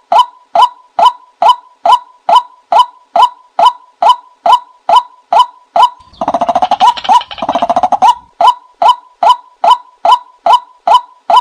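Looped recording of a bird call played as a decoy to lure birds: a short, upward-inflected note repeated evenly about twice a second. Between about six and eight seconds in, a faster, denser run of calls interrupts it before the steady repetition resumes.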